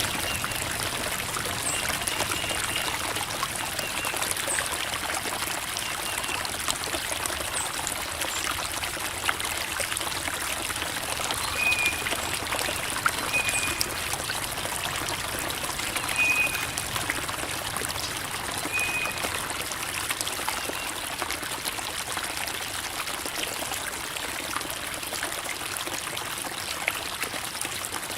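Creek water trickling and babbling steadily over rocks. A few short high chirps come in around the middle.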